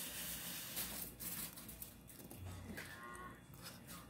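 Close-miked eating sounds of someone chewing a mouthful of rice and beans, with clicks and mouth noises. About halfway through comes a short, low, drawn-out hum-like tone that falls in pitch.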